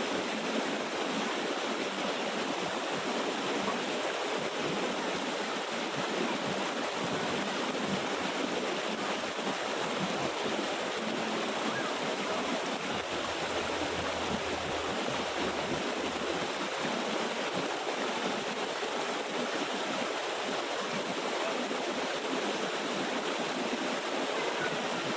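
Water of a small waterfall rushing and splashing steadily.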